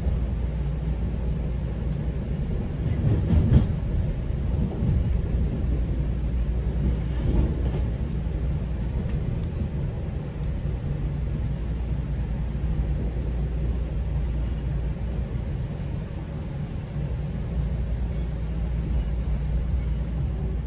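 GO Transit passenger train running along the track, heard on board: a steady low rumble of wheels on rail, with a brief louder clatter about three and a half seconds in.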